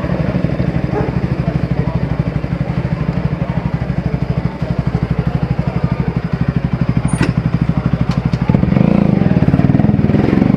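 Single-cylinder Bajaj Pulsar 200 motorcycle with an aftermarket Akrapovic exhaust, idling with an even exhaust pulse. A sharp click comes about seven seconds in, and the engine is revved louder about eight and a half seconds in.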